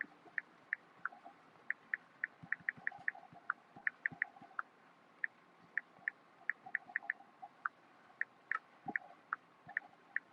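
Water dripping after rain: irregular short plinks, several a second, some with a soft knock, over a faint hiss.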